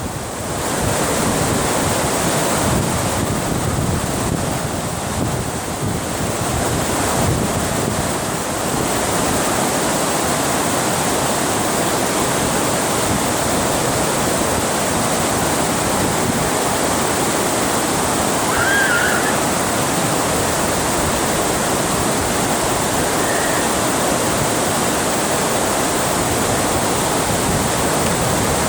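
Water rushing over a dam, a steady, full roar of falling water, with some wind on the microphone. A brief chirp stands out about 19 seconds in.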